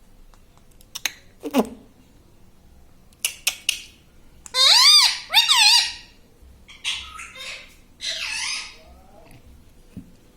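Pet ring-necked parakeet calling: a few short squeaks and clicks, then two loud warbling calls about halfway through, followed by softer scratchy chatter.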